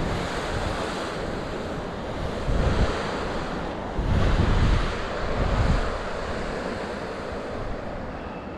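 Wind buffeting the camera microphone in gusts, over a steady rush of falling water from the beck's waterfall.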